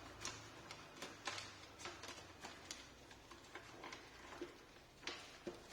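Scissors cutting open a box's packaging: a string of faint, irregular snips and clicks.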